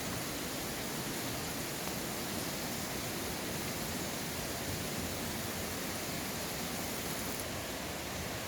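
Mountain stream water rushing, a steady even roar of flowing water.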